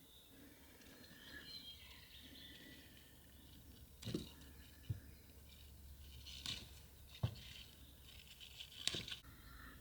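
Several short, sharp knocks and clicks, about five in the second half, over faint birdsong.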